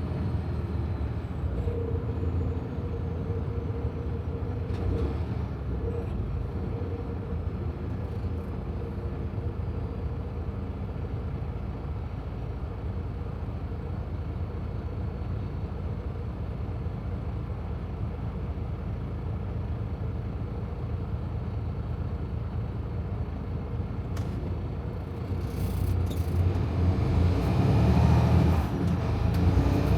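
Semi truck heard from inside the cab while driving: a steady low engine and road rumble that grows louder over the last few seconds.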